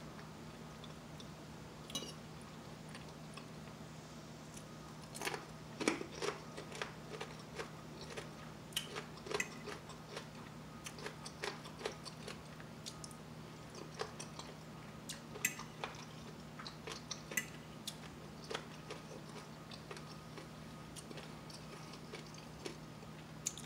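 Close-miked mouth sounds of a person chewing soft breakfast food (scrambled eggs, home fries, pancakes): irregular wet smacks and small clicks, a few a second at times, over a steady low hum.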